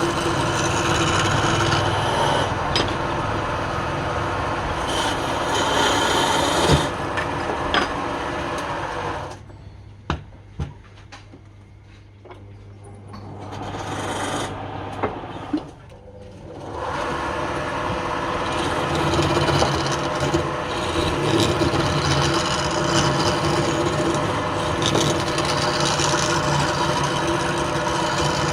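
Wood lathe running while a turning tool cuts the spinning wood, a steady rasping scrape over the motor's hum. About a third of the way in the cutting stops for several seconds, leaving the hum and a few clicks, then the scraping resumes.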